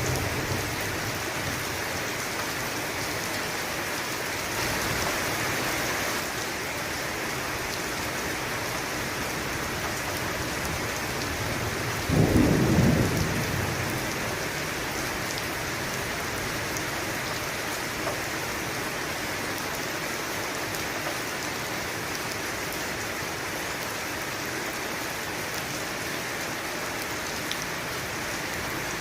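Steady heavy rain falling, with one sudden clap of thunder about twelve seconds in that rumbles for a couple of seconds before fading back into the rain.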